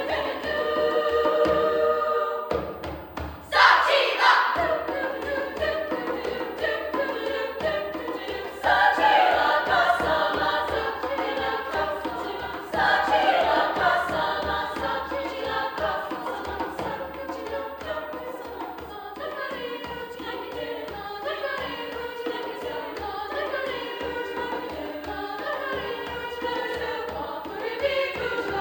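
High school choir singing in parts, with sudden louder entrances about three and a half, nine and thirteen seconds in.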